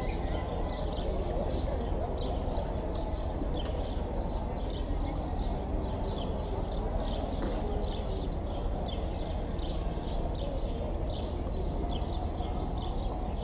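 Small birds chirping over and over, a couple of short high calls a second, over a steady low rumble of outdoor background noise.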